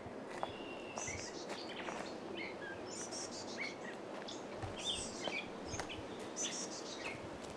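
Several wild birds chirping and calling in short, overlapping high notes over a steady background of outdoor noise, with a few faint clicks.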